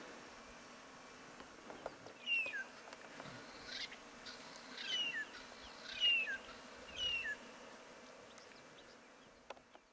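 A wild bird calling four times, each call a short two-note phrase falling in pitch, over a faint steady background of bush ambience.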